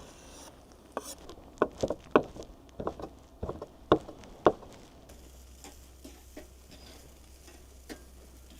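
A cooking utensil knocking and scraping against a pan while fried rice is stirred and frying. About a dozen sharp clacks come in the first half, then only light ticks.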